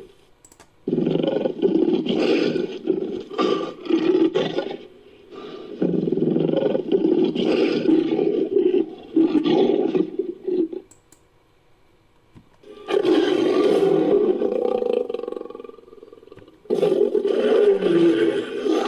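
Designed big-cat roars for the extinct Panthera youngi, built from recorded lion roars: four long roaring bouts, each a few seconds, with short pauses between them.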